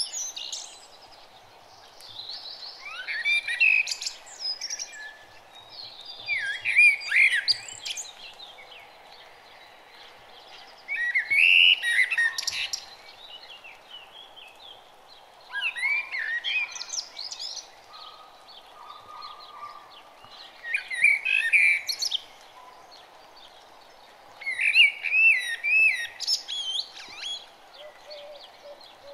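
A songbird singing short, rapid warbling phrases about every four seconds, over a steady faint background hum.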